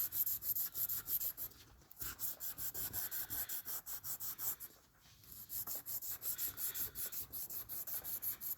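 800-grit sandpaper rubbing back and forth across a watch crystal to take out scratches. The strokes are quick and even, about four a second, with two short breaks.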